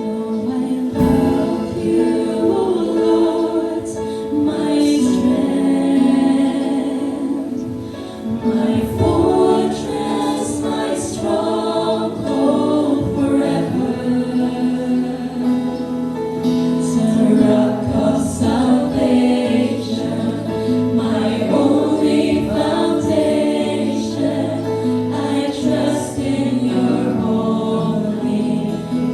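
A group of voices singing a Christian worship song with musical accompaniment.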